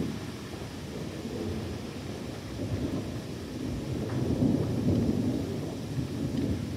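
Thunder rumbling low and long, swelling to its loudest about four to five seconds in.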